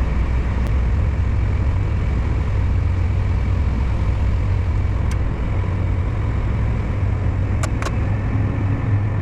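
Farm machine engine running at a steady, even drone, heavy in the low end, with a faint high steady whine over it. A few light clicks come at intervals, two close together near the end.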